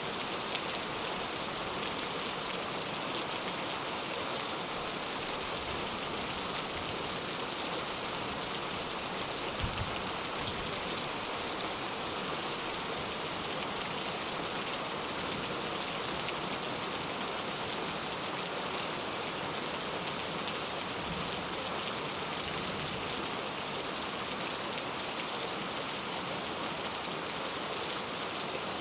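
Steady rain falling, an even hiss of countless drops that neither builds nor lets up.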